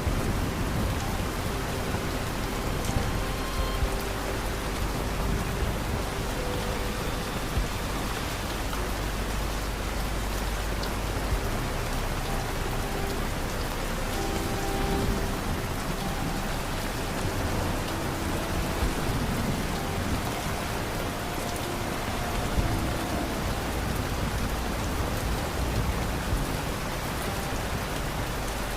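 Steady rain falling and pattering on surfaces, an even, unbroken hiss. Faint, short held tones show through it now and then.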